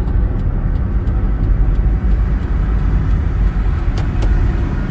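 Road noise inside a car's cabin while driving at speed: a steady low rumble of tyres and engine, with two faint clicks about four seconds in.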